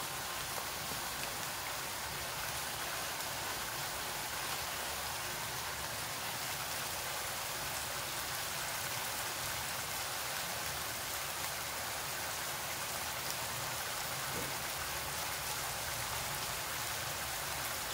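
Chicken and pineapple pieces sizzling steadily in a wok, a constant even hiss.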